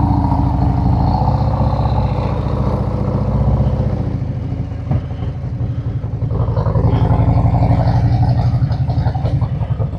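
Harley-Davidson Ultra Limited's Screaming Eagle 131 V-twin engine running as the bike pulls away, easing off about halfway through and then pulling harder again.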